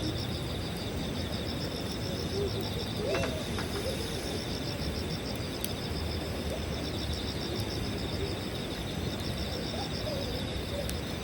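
Night insects chirping in fast, even pulses over a campfire, with a couple of sharp pops from the fire and a few short calls in the background.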